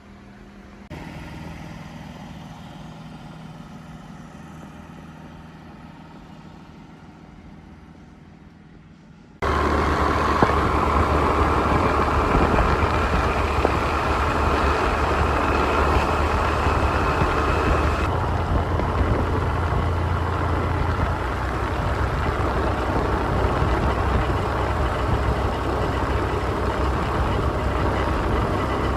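Waterfall rushing: faint and steady at first, then suddenly much louder about nine seconds in, a dense steady rush of falling water.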